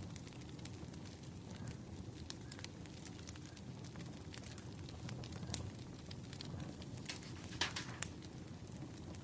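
Firewood burning: irregular crackles and sharp pops over a steady low rumble, with the loudest pops a little before eight seconds in.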